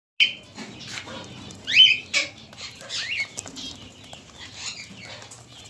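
Cockatiels calling: a series of short whistled chirps that sweep upward, the loudest about two seconds in.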